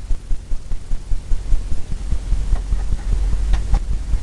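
Fan brush tapped rapidly against a stretched canvas, a run of dull low thumps about four or five a second that run closer together in the second half.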